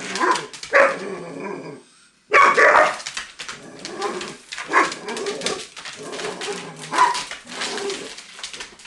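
Doberman barking over and over in loud separate barks, with a short break about two seconds in.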